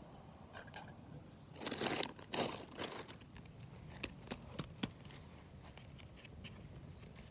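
Crinkling and rustling as something crumpled is handled, in a few loud bursts in the first half, followed by several sharp clicks.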